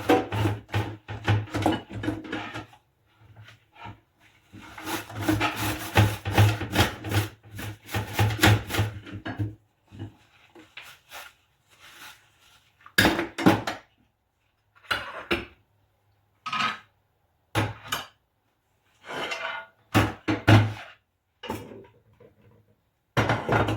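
Dishes being washed by hand: two stretches of scrubbing and clattering, then a series of separate knocks and clinks as dishes are handled and set down.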